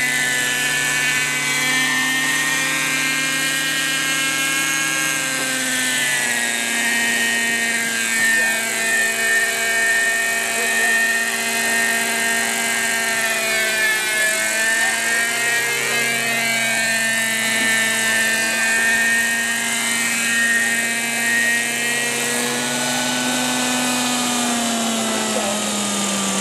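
Hirobo Shuttle radio-controlled model helicopter running, its small glow-fuel engine and rotors making a steady high-pitched whine. The pitch drops about six seconds in and changes again near the end as the throttle is moved.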